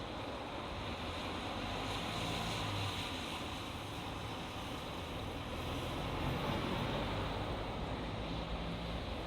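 Road traffic on a highway: vehicles passing in a steady wash of tyre and engine noise, swelling a little twice as they go by, with wind mixed in.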